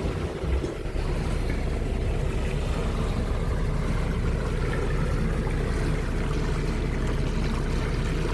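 Motorboat engine running under way as the boat gets up on plane, a steady low drone that grows a little louder about a second in and then holds.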